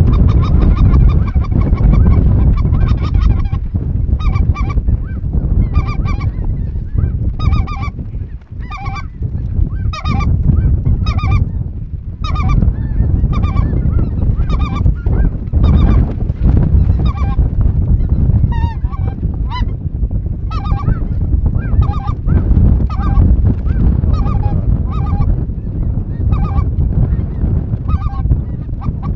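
A flock of geese calling: many short honks follow one another and overlap, several a second. A heavy low rumble runs underneath.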